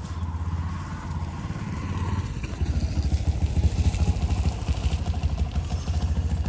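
A vehicle engine running with a fast, even low throb, getting louder about two and a half seconds in.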